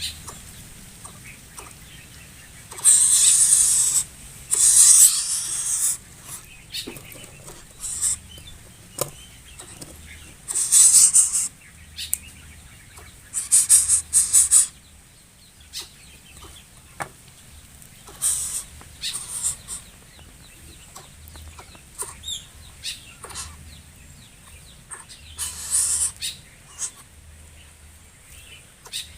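A coucal's wings flapping in short noisy bursts. Four loud bursts come in the first half and a few weaker ones later, with soft clicks in between.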